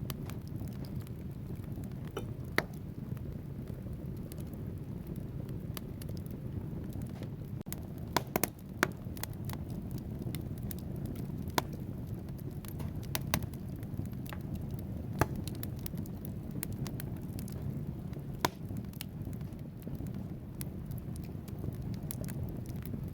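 Wood fire burning in a fireplace: a steady low rumble of flames with logs crackling and snapping, a quick cluster of loud pops about a third of the way through and single sharp pops scattered across the rest.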